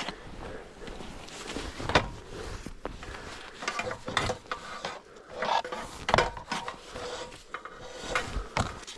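Irregular knocks, clunks and clicks of hands working on equipment, with a few footstep-like steps.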